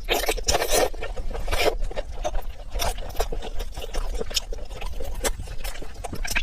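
A person chewing food close to the microphone, with wet smacking and irregular clicks.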